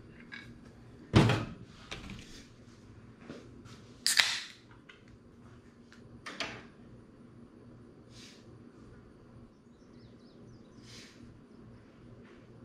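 Three sharp knocks, the loudest about a second in, then two more about three and five seconds later, with faint clicks and rustles between.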